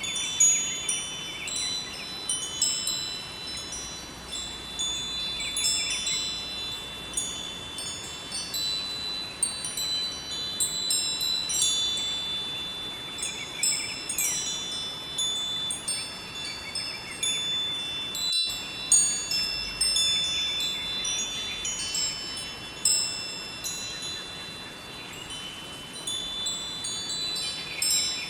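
Wind chimes ringing continuously, many high bell-like tones struck at irregular moments and overlapping, over a steady rush of flowing river water. All sound drops out for an instant about eighteen seconds in.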